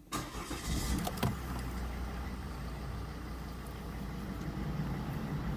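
Volvo C70's 2.0-litre D3 diesel engine starting up and settling into a steady idle, with a single click about a second in.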